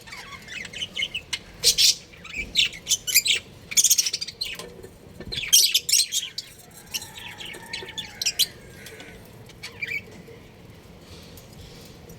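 Budgerigars chirping in quick bursts of high, rapid chirps, busiest in the first half and thinning out toward the end.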